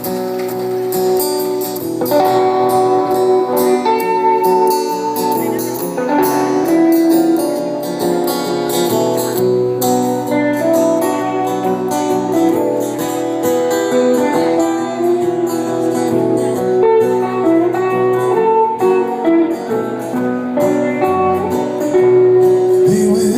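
A live band plays the instrumental introduction of a song, with guitars to the fore. The playing grows fuller about two seconds in.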